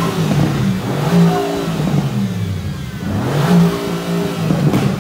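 Mercedes-AMG GT R's twin-turbo V8 revved while standing still: quick throttle blips whose pitch climbs and falls back, loudest about a second in and again about three and a half seconds in.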